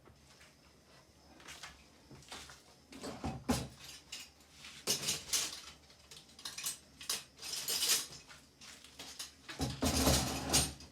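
Cardboard air fryer box and its packaging being handled: irregular scraping, rustling and knocks, with louder clatters about three and a half, five and ten seconds in.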